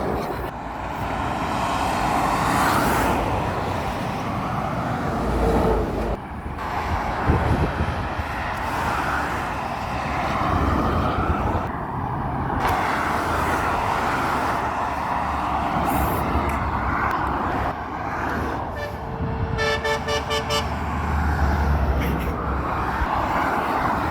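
Steady road traffic passing close by, with a vehicle horn sounding a quick string of short blasts about nineteen seconds in.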